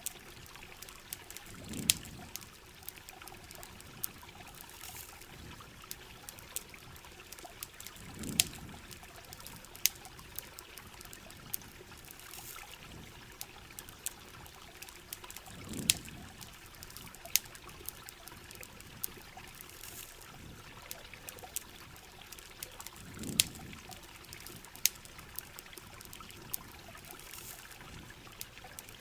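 Steady hiss of heavy rain and running river water. Sharp campfire crackles and pops are scattered through it. A soft low swell comes back about every seven and a half seconds.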